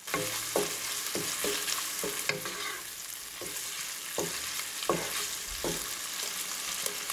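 Diced ham sizzling in butter and oil in a nonstick pot with a steady hiss, while a wooden spoon stirs it, scraping and knocking against the pan about twice a second.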